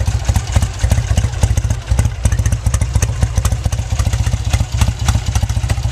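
1966 Triumph Bonneville's 650 cc parallel-twin engine idling steadily in an even, rapid beat of exhaust pulses, still warming up after a cold start.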